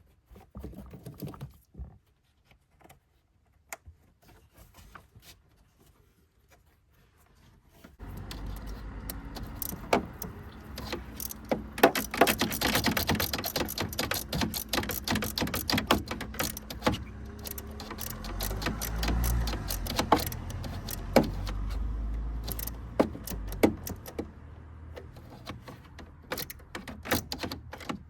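Metal tools and parts clinking and rattling, many sharp clicks in quick succession over a steady background noise that comes in about eight seconds in, with a low rumble for a few seconds in the middle.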